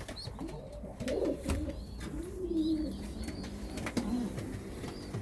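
Racing pigeons cooing: several low coos that rise and fall in pitch, with short high peeps scattered throughout.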